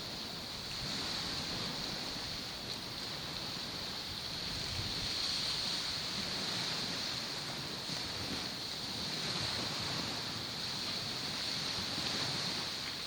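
Waves washing on the shore in a steady, gently swelling surf wash, with a steady high-pitched drone held behind it.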